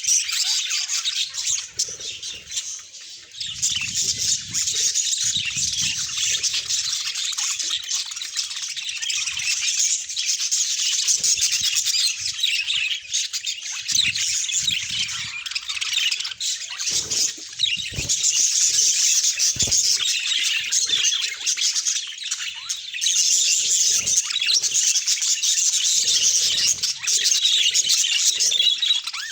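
Pair of budgerigars chirping and warbling in a continuous chatter, with scattered soft knocks and flutters.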